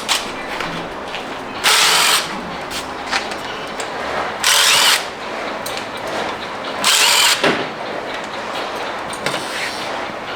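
A handheld power tool runs in three short bursts of about half a second each, spaced a couple of seconds apart, over steady background noise. It is backing out fasteners as the engine is stripped.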